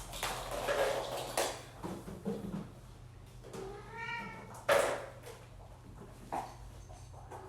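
A cat meows once, a single rising-then-falling call about four seconds in, among scattered knocks and rattles from kittens playing with plastic eggs. The loudest sound is a sharp knock just after the meow.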